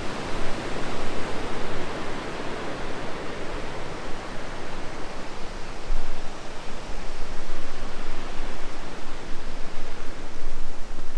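Steady rush of fast-flowing river water and falls, a dense even noise with a low rumble beneath that swells and fades.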